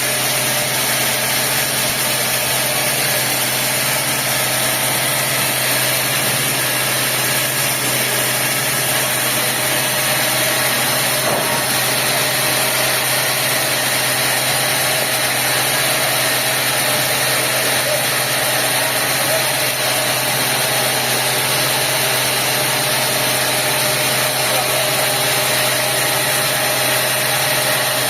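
Sawmill machinery running steadily with a constant engine-like drone that does not change.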